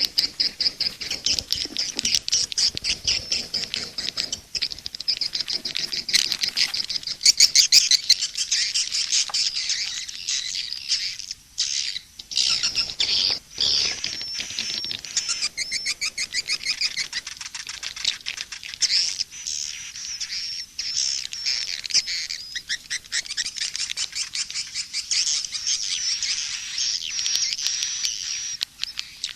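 Swiftlets (walet, the edible-nest swiftlet) chattering and twittering without a break: high, fast chirps and rapid clicking trills. It is a mixed swiftlet-call recording of the kind played at swiftlet nest houses to lure the birds in.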